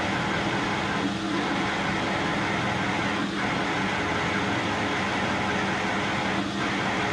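Metal lathe running with a steady hum while a 7/8-inch drill cuts into a 4140 steel workpiece, with a few faint brief scrapes of the cut.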